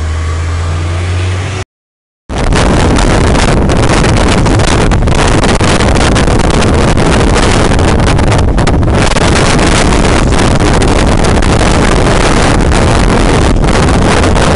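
Strong wind buffeting the microphone: very loud, dense, unbroken wind noise that starts abruptly after a brief cut about two seconds in. Before the cut, a low rumble.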